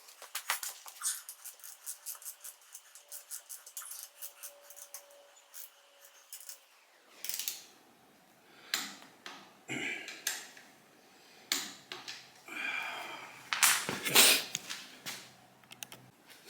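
Ratchet wrench clicking in a steady run, about three clicks a second, as a bolt is turned, then scattered clinks and knocks of tools and metal parts.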